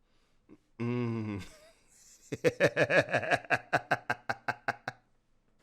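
A short vocal sound, then a person laughing in a long run of quick bursts, about six a second, fading out near the end.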